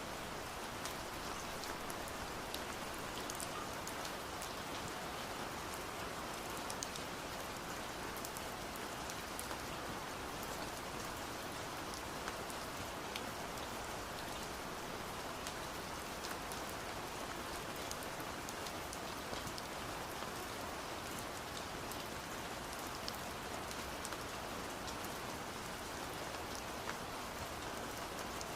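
Steady rain: an even hiss with many scattered sharp taps of drops striking window glass.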